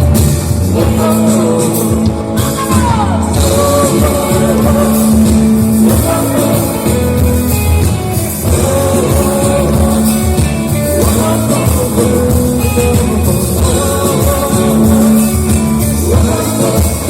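Live rock music from a band on stage, with singing over the instruments.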